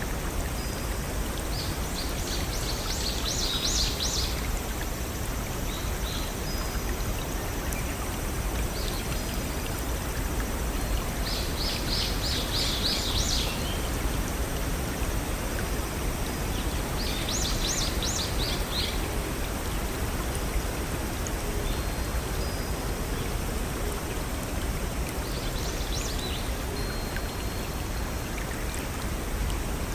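Small waterfall and brook flowing with a steady, even rush of water. A songbird sings four short phrases of rapid high notes over it, spaced several seconds apart.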